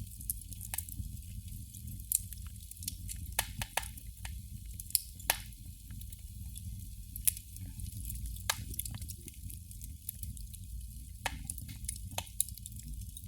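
Candle flame crackling: the burning wick gives about a dozen irregular, sharp pops and sizzles, the loudest about five seconds in, over a steady low rumble.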